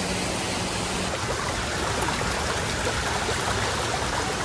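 Fountain water splashing steadily into a pond, a continuous rush of falling water.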